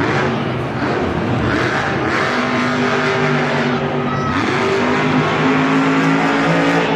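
Monster truck engine running loud and revving, its pitch climbing about half a second in and again about four seconds in, then holding high.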